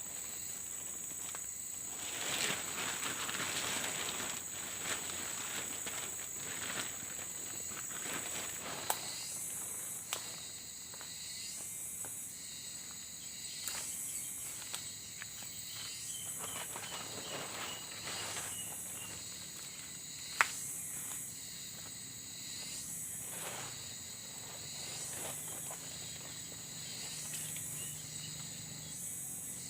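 Evening chorus of forest insects: a steady high buzz, and from about nine seconds in a pulsing chirp that repeats about once every second and a half. Over it come rustling and a few sharp knocks from handling camping gear, the rustling heaviest in the first several seconds.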